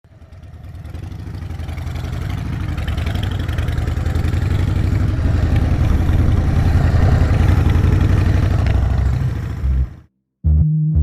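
A vehicle engine idling with a rapid low pulse, fading in over the first few seconds and cutting off suddenly about ten seconds in. Synthesizer music starts just before the end.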